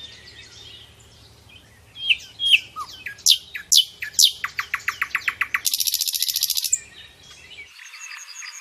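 A songbird singing a varied song: a string of sharp, falling whistled notes, then a fast rattle of clipped notes and a loud buzzy trill. Softer chirping takes over near the end.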